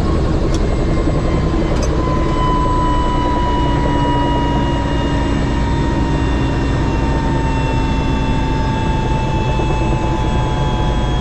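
Helicopter running, heard from on board: steady heavy engine and rotor noise with a whine that slowly drops in pitch.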